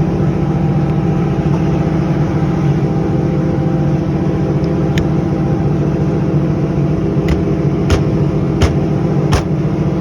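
Steady, loud drone of a running engine or machine nearby, even in pitch. In the second half, five sharp clicks and taps of metal parts being handled.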